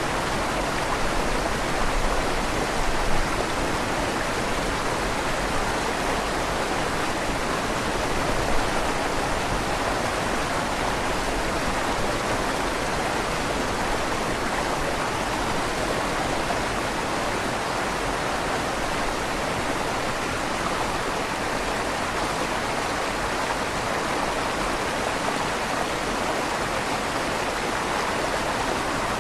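River water flowing steadily through a stone bridge's tunnel, its rushing carrying a slight echo off the stone walls, with a couple of brief louder splashes in the first ten seconds.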